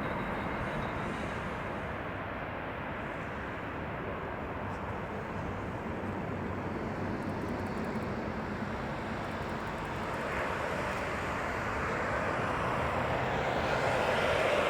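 Boeing 737-700 BBJ's CFM56-7B turbofan engines on final approach: a steady jet rushing that grows louder over the last few seconds as the aircraft comes close.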